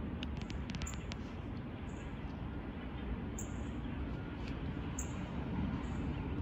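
Small birds chirping: short, high-pitched chirps every second or so over a steady low background rumble.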